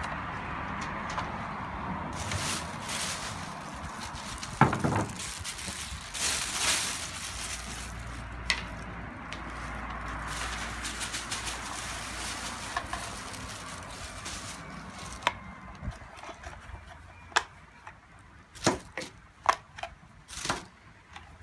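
Sharp clicks and knocks of hard plastic parts being handled on a Roomba 780 robot vacuum during cleaning and reassembly, with several knocks in quick succession near the end over a steady background hiss that fades.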